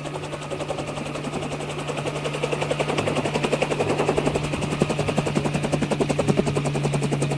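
Helicopter with rotor blades chopping in a fast, even beat over a steady engine hum. It grows louder through the middle and eases slightly near the end.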